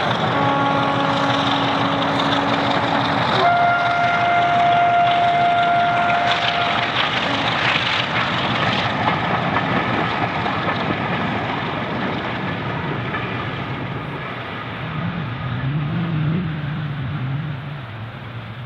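Diesel locomotive sounding its two-tone horn, a lower note for about three seconds and then a higher note for about three seconds, over loud engine noise. The noise gradually fades as the train moves away.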